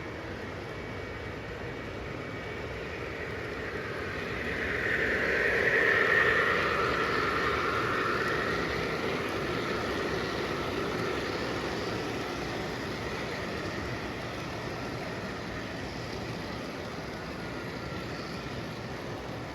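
O gauge electric model train running on a layout, a steady rumble of motor and wheels. It swells louder about five seconds in, with some tones rising above the noise, then eases back to a steady run.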